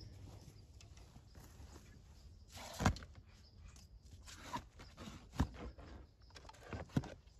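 A few separate sharp knocks or thuds over a faint low background. The loudest comes about three seconds in, followed by others near five and a half and seven seconds.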